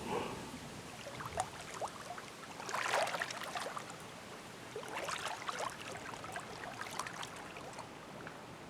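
Faint scattered clicks and short rattling patches from a computer mouse being clicked and scrolled at a desk.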